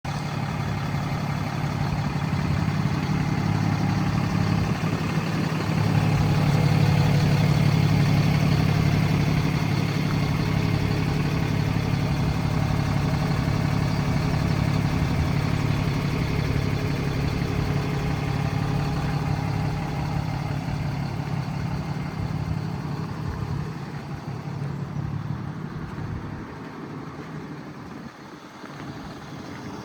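Diesel engine of a DAF LF 230 truck-mounted road sweeper idling with a steady low drone, growing fainter over the last few seconds.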